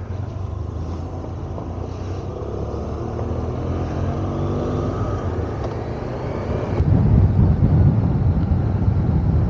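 Parallel-twin motorcycle engine running as the bike rides on, with wind rumble on the microphone; the sound grows louder and rougher about seven seconds in.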